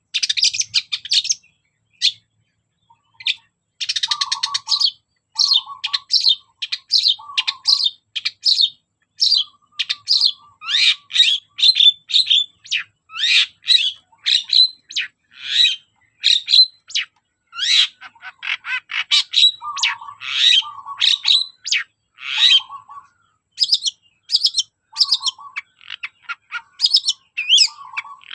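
Long-tailed shrike singing a rapid, near-continuous string of short chirps and chattering notes, mixing in phrases mimicked from other birds, with a brief pause about two seconds in.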